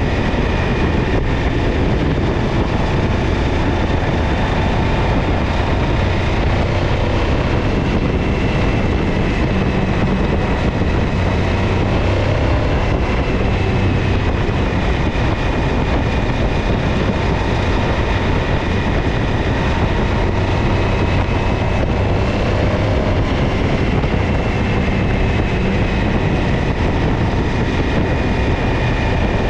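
Suzuki V-Strom DL1000's V-twin engine running steadily with a misfiring rear cylinder.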